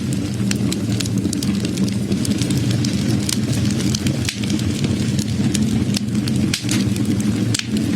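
Wood fire burning, with frequent irregular crackles and pops over a steady low rumble.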